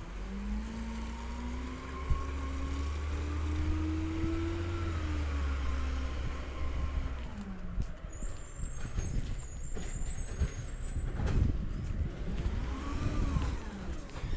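Diesel engine of a Peterbilt 320 side-loader garbage truck revving up steadily for several seconds, then dropping back. A short hiss of air and a second, briefer rev and fall follow near the end.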